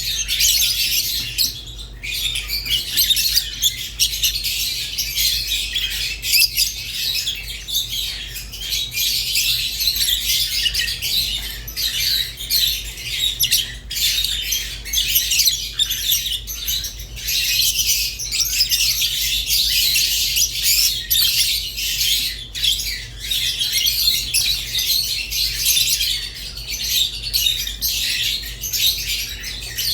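Pet lovebirds, rosy-faced and Fischer's, chirping and squawking nonstop in a dense, high chatter over a steady low hum.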